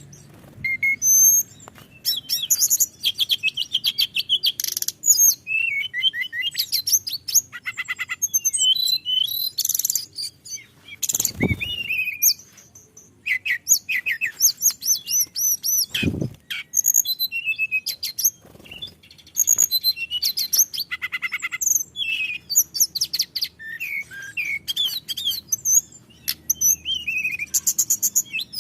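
Hill blue flycatcher (tledekan gunung) singing a long, varied song of clear whistles, sweeping notes and fast trills, phrase after phrase with only short pauses. Two dull low thumps break in, about 11 and 16 seconds in.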